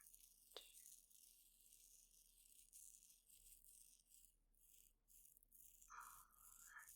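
Faint ASMR head-scratch sounds: fingernails scratching and rustling close to the microphone in a fine hiss of irregular, quick strokes.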